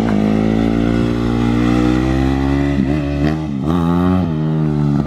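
Dirt bike engine running close by at a steady speed, its pitch dipping and climbing again a few times around the middle as the throttle is worked.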